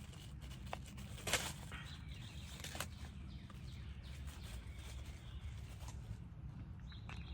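Steady low outdoor rumble with a few light clicks and taps from handling a sandwich and its takeout box, the sharpest about a second and a half in.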